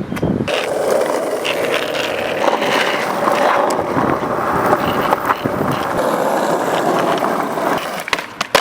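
Skateboard on extra-wide freeboard trucks rolling steadily over pavement, its wheels rumbling, with a few light ticks and one sharp knock near the end.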